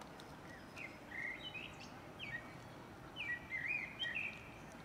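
Small birds chirping in short, quick notes that bend up and down: a couple about a second in, one near the middle, and a busier run toward the end, over a steady outdoor background noise.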